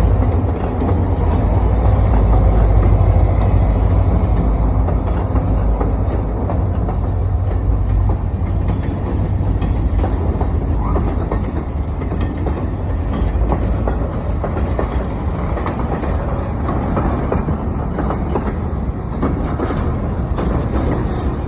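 Reading & Northern freight train rolling past close by as it pulls up a steep grade: a heavy, steady low rumble with engine tones near the start, then the freight cars' wheels clacking over the rail joints.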